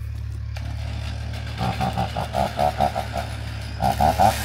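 An engine idling steadily as a low hum, with a run of louder, uneven pulses over it about a second and a half in and again near the end.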